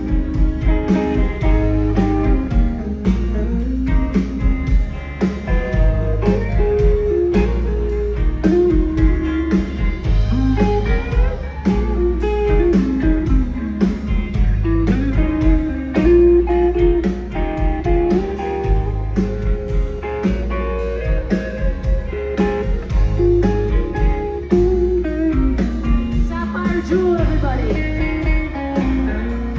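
Live rock band playing an instrumental passage: guitars over bass and drums with a steady beat.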